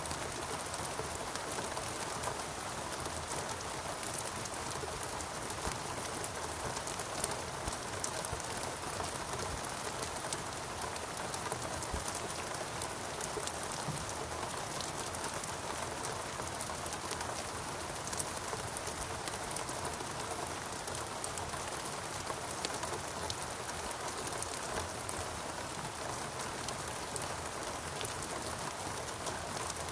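Steady rain falling on rainforest foliage, with a constant hiss and many small drop ticks.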